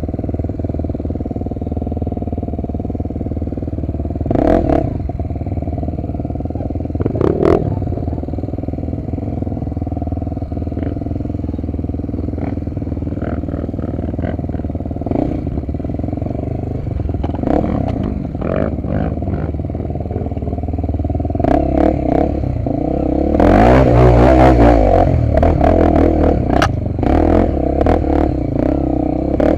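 Honda XR250 Tornado's single-cylinder four-stroke engine running on a trail ride, with clatter and knocks from the bike over rough ground. About 23 seconds in the engine gets louder and the rattling thickens.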